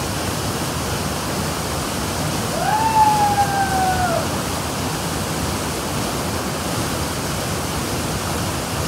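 Waterfall pouring into a pool: a steady, even rush of falling water. About three seconds in, a single held pitched call, perhaps a voice, rises quickly, then falls slowly and lasts a second and a half.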